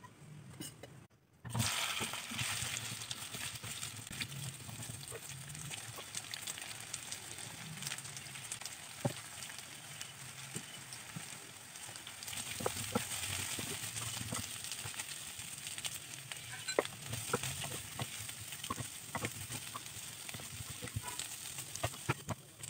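Taro pieces frying in oil in a non-stick kadai, a steady sizzle that comes in about a second and a half in. Short clicks and scrapes of a spatula stirring the pieces against the pan run through it.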